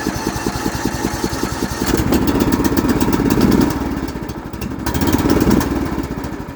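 Cub Cadet lawn tractor's engine running just after a cold start. It speeds up twice, about two seconds in and again about five seconds in, then settles back each time.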